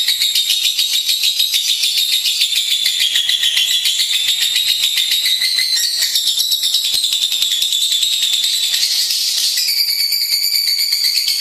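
Lovebird singing a long, unbroken run of rapid, high-pitched chattering notes. The pitch of the chatter shifts about six seconds in and again near the end.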